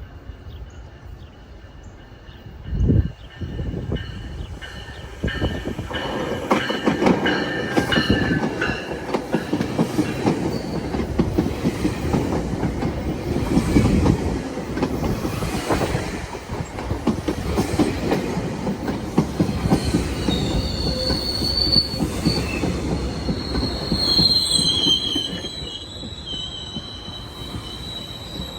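GO Transit diesel commuter train pulling into a station: a brief loud low thump about three seconds in, then the rumble of the cars with wheels clacking over rail joints. A high thin wheel and brake squeal comes in near the end as the train slows, and the noise drops off just before the end.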